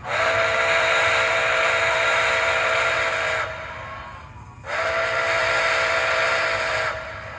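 Model steam locomotive's sound system blowing its chime steam whistle, two long blasts with a short gap between, each a steady chord over a hiss. Running sounds of the locomotive rumble faintly underneath.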